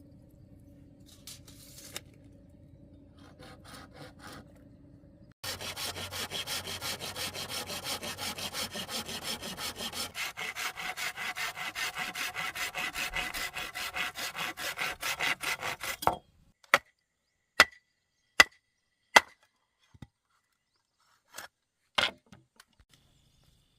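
Hand saw cutting wood with quick, even strokes for about ten seconds, then stopping. A few separate sharp knocks follow.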